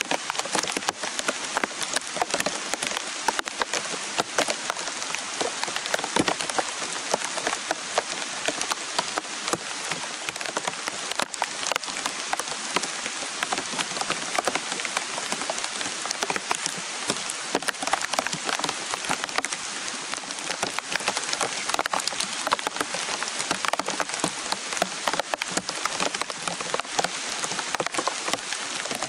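Heavy rain falling steadily on forest foliage, a dense patter of countless drops.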